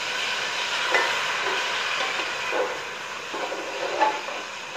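Onions, ginger and garlic paste sizzling and hissing in hot oil in an aluminium pot after a little water has been added. A metal spatula stirs and clinks sharply against the pot about a second in and again near the end.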